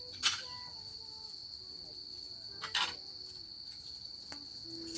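Crickets chirring in a steady high chorus, broken by two sharp snaps, one just after the start and one near the middle.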